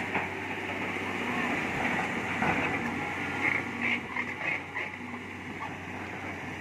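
Heavy diesel engine running steadily with a low hum, with faint voices in the background.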